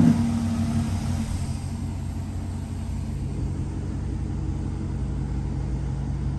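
Car engine idling with a steady low rumble, easing down in level over the first second or so and then holding even.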